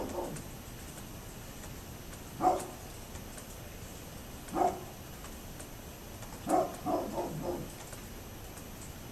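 A dog barking: single barks about two seconds apart, then a quick run of four barks about six and a half seconds in.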